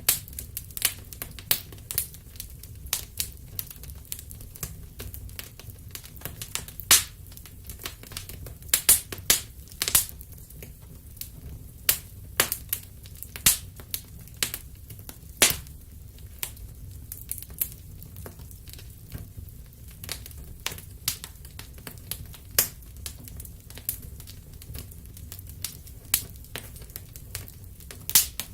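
Wood fire crackling in a fireplace: irregular sharp pops and snaps, the loudest clustered around seven to ten seconds in and again around fifteen seconds, over a steady low rumble.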